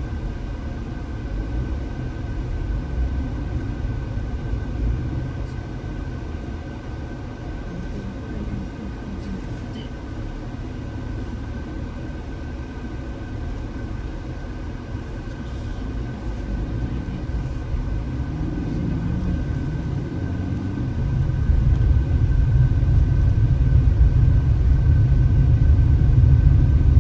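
Car driving up a mountain road: a steady low rumble of engine and road noise that grows louder about 21 seconds in.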